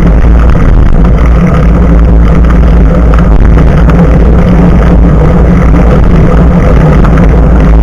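Loud, steady wind rumble and tyre road noise from a moving bicycle, picked up by an action camera's microphone mounted just above the front tyre.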